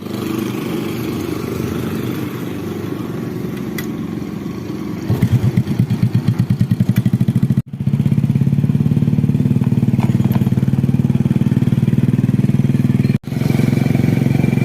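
An engine running steadily, with a pulsing beat in the middle stretch. The sound cuts off abruptly twice, about halfway through and near the end.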